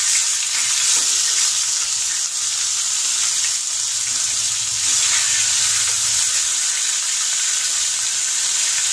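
Ginger-garlic paste sizzling in hot oil and ghee with whole spices and cumin, stirred in a small nonstick pan with a spatula. A steady, even frying hiss.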